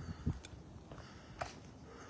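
Footsteps on an outdoor path, a few irregular low thuds, with a sharper click about a second and a half in.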